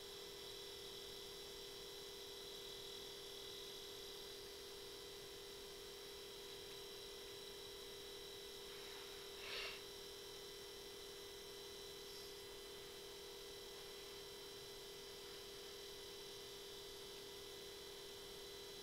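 Faint steady electronic whine made of several fixed tones over a low hiss, with one brief click about halfway through.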